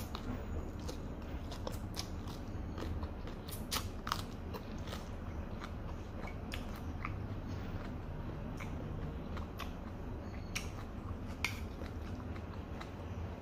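Close-up eating sounds: a person chewing a mouthful of fried noodles and cabbage, with many short, sharp wet mouth clicks and smacks.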